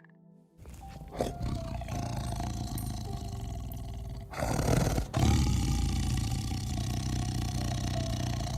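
Lion roaring: a long, low, noisy roar that grows louder about four and a half seconds in and carries on.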